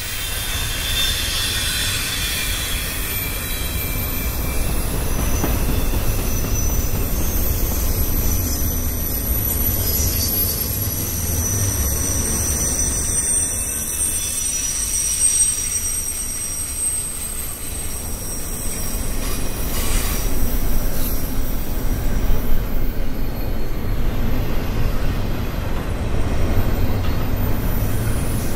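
Freight train of double-stack container well cars rolling past, a continuous low rumble with high wheel squeal coming and going over it. Late in the passage the squeal fades and the rumble gets louder.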